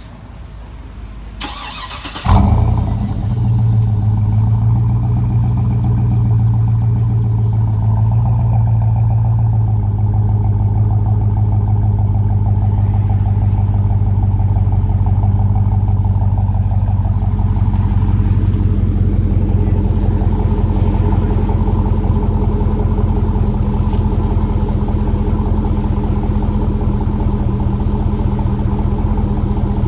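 2007 GMC Yukon Denali's 6.2-litre V8 breathing through an Aero Turbine AT3030XL exhaust: the starter cranks briefly, the engine catches about two seconds in with a short flare, then idles steadily, settling a little lower about ten seconds in.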